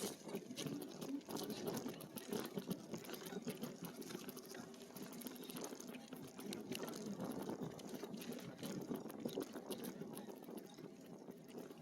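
E-bike tyres rolling along a trail, making a steady crackling, crunching noise full of small clicks.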